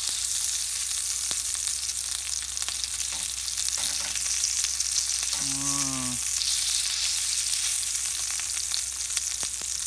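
Steady sizzling hiss of food frying in a pan at a camp stove, with scattered light clicks of a utensil stirring it. A brief low hum from a person about halfway through.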